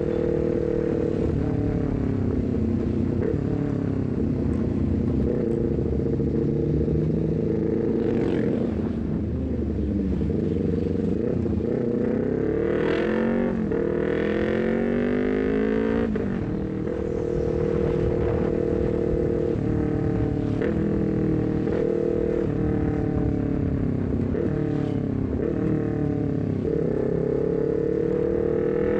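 Honda CBR250RR's parallel-twin engine through a full-system exhaust with a short Leovince GP Corsa carbon silencer, under way: the revs climb and fall again and again, with several sharp breaks in pitch at the gear changes.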